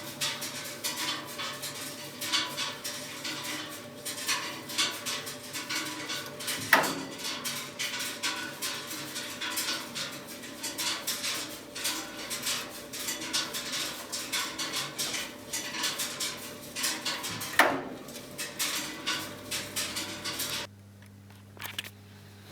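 Metal tools and machine parts clinking and clattering irregularly during repair work on a washing machine's bearing, with two sharper knocks, about seven and about eighteen seconds in. The clatter cuts off suddenly near the end, leaving a faint low hum.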